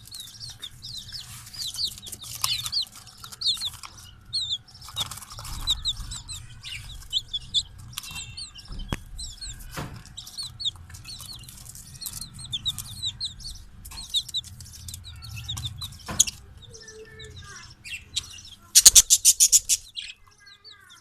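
Chicks peeping continuously in short, high, downward chirps, with a few sharp knocks in between. Near the end comes a loud, rapid rattling burst of calls.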